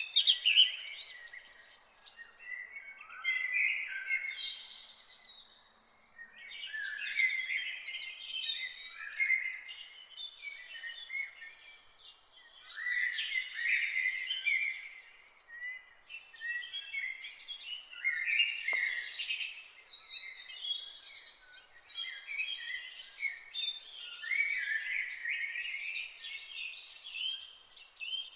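Several songbirds singing at once in a morning chorus: overlapping chirped and warbled phrases that slide in pitch, with a faint steady high tone beneath them.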